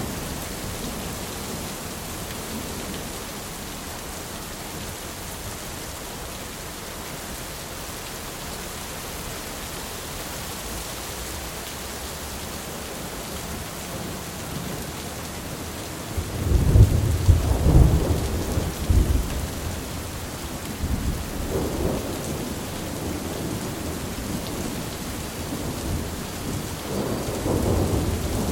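Thunderstorm: steady rain hissing throughout, then a loud roll of thunder breaks in about halfway through and rumbles for several seconds. Smaller rumbles follow, and another roll builds near the end.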